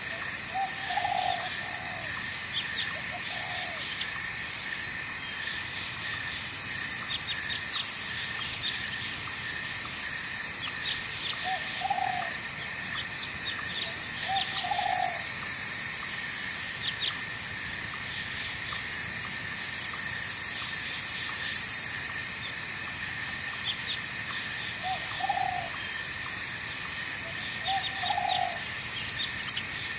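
Night forest ambience: a steady insect chorus over a flowing-water hiss, with many small chirps. A very high, shrill insect buzz switches on and off in stretches of a few seconds. Short low calls come now and then, often two a few seconds apart.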